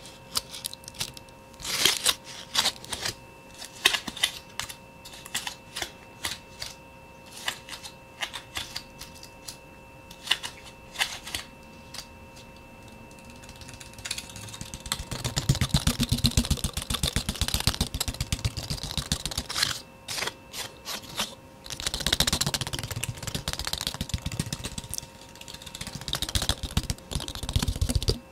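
Soft tapping, sparse and irregular at first, then a fast, dense flurry of taps from about halfway in, with a short break before the rapid tapping picks up again.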